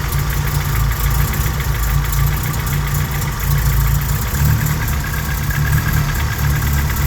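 Honda G23 four-cylinder engine (F23A5 block) idling just after a cold start, with a light rhythmic knock, "ta ta ta ta", over the running. The knock is piston slap around cylinders 1 and 2, which goes away as the engine warms up.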